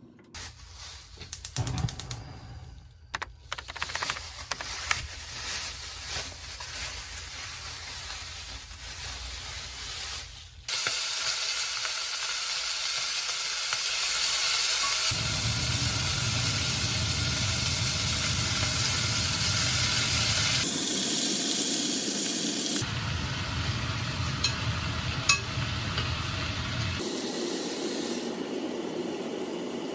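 Kitchen cooking sounds: scattered clicks and taps at first, then a steady hiss from about a third of the way in, changing abruptly several times as separate clips are cut together.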